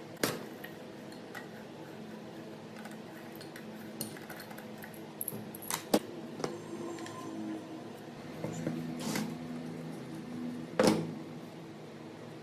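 Metal parts and tools being handled: scattered clinks and a few sharp knocks, the loudest near the end, over a steady low hum.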